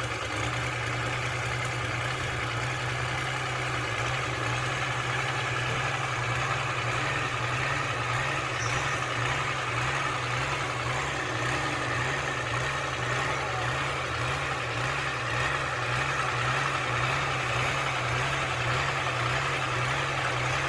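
Rebuilt heavy diesel engine running steadily at idle, a continuous low hum with a slight regular pulse.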